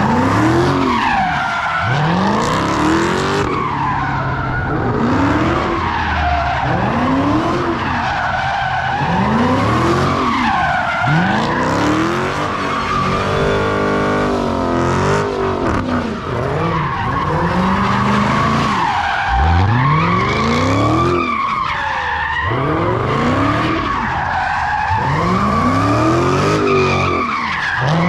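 A car spinning donuts: continuous tyre squeal that wavers in pitch, with the engine revving up and dropping back about every two seconds, held at steady high revs for a couple of seconds a little past the middle.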